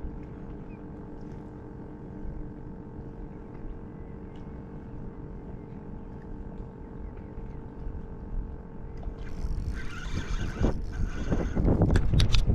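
A boat motor hums steadily, with several fixed tones over a low rumble. From about nine seconds in, louder rustling and sharp knocks build up and peak near the end.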